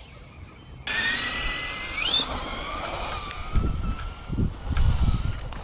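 Electric RC car motor whining. It starts suddenly, rises in pitch as the car speeds up, then holds and slowly sags, with low rumbling thumps underneath in the second half.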